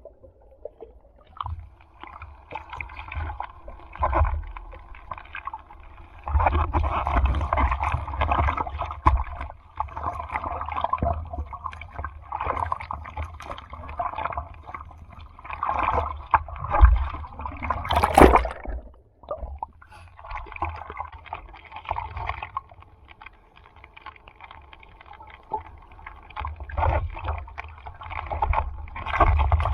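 Sea water splashing and sloshing around the microphone in uneven surges, with low rumbling buffets and a few sharper splashes.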